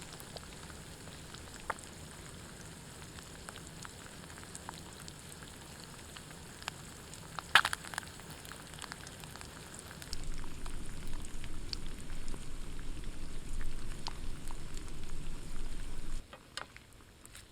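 Campfire cooking: a steady hiss with scattered crackles and pops, a sharp cluster of pops about halfway through. A louder stretch of low rumbling noise comes in about ten seconds in and cuts off abruptly near the end.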